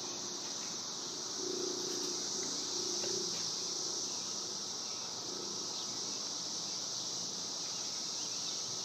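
Chorus of cicadas in the trees, a steady high-pitched drone.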